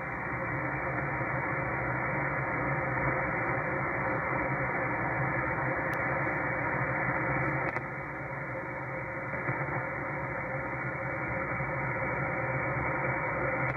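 Power line noise coming through a Flex 1500 radio receiver: a steady, harsh buzzing hiss filling the receiver's audio with no signal above it, dipping slightly about eight seconds in. It is interference radiated by a faulty power line some blocks away.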